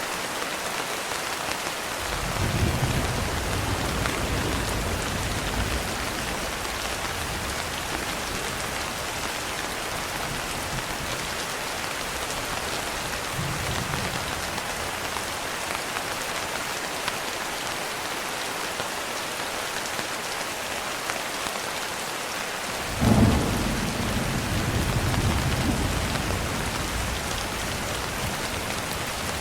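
Steady heavy rain, with thunder rumbling low twice in the first half and a sharper, louder clap about 23 seconds in that rolls away over a few seconds.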